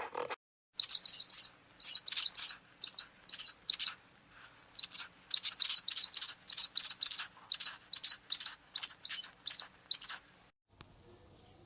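A small bird chirping: a quick series of short, high chirps in runs of several, starting about a second in, pausing briefly near four seconds, and stopping shortly before the end.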